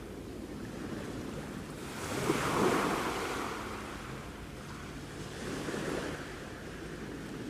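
Sea waves breaking and washing ashore: a rushing swell that peaks about two to three seconds in, eases, and swells again near six seconds.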